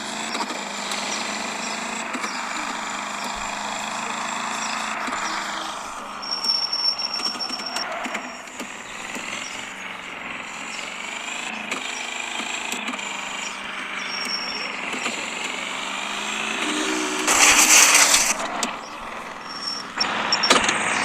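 Lada (VAZ) car engines revving hard in a chase, the engine pitch rising and falling with gear changes. A loud noisy burst cuts in about seventeen seconds in, with a shorter one near the end.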